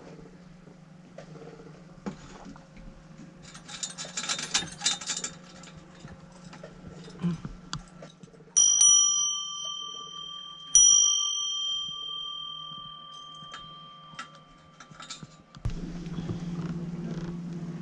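A small bell struck twice about two seconds apart, each strike ringing on for several seconds with a clear high tone. A steady low hum grows louder near the end.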